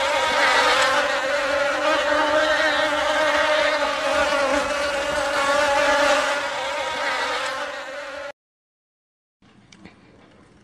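Honeybees buzzing en masse on a hive frame: a dense, steady hum that cuts off suddenly about eight seconds in.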